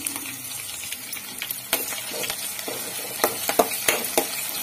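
Chopped onions and curry leaves sizzling in hot oil in a stainless steel pan, stirred with a metal spoon that scrapes and clicks against the pan. The clicks and knocks come more often from about two seconds in.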